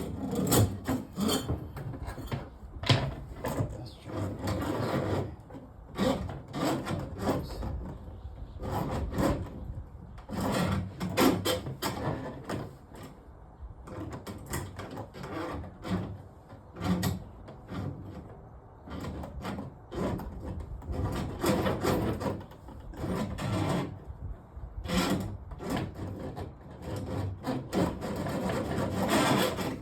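Irregular scraping and rubbing with short knocks and clatters, from hands working on kitchen sink drain pipes and plumbing tools.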